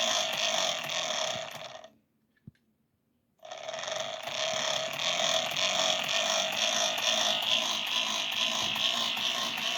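Small electric motor and gear train of a Lego-built model locomotive running under power from a model-train controller: a steady mechanical whirring with a whine in it. About two seconds in it dies away to silence, and after about a second and a half it starts again at the same level.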